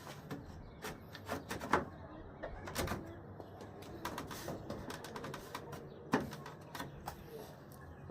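Irregular clicks and light knocks of hand tools on bolts and trim parts during disassembly work on a truck's front end, loudest a little under two seconds in, just before three seconds in, and about six seconds in.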